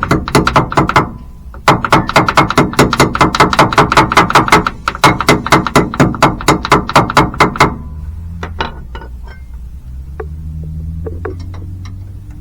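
Ratchet wrench clicking rapidly and evenly, about seven clicks a second, while working a bolt on a rusty brake master cylinder. It runs in two stretches and stops about eight seconds in, followed by a few scattered metal knocks.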